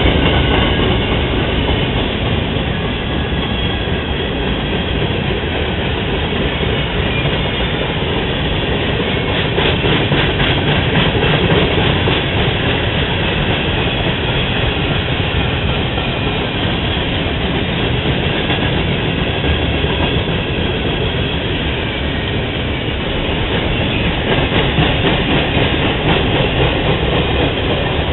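Freight train's cars rolling past on the rails, a steady loud rumble with wheel clatter.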